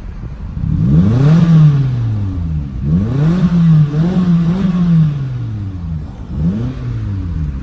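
Mitsubishi Lancer four-cylinder engine being revved in place with its muffler deleted and only the resonator left: two long revs that climb, hold and fall back, then a shorter blip near the end.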